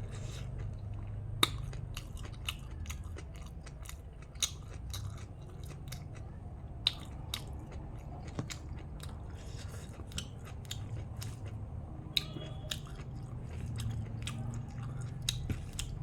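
A person chewing and eating chicken biryani: irregular wet mouth clicks, smacks and soft crunches, several a second.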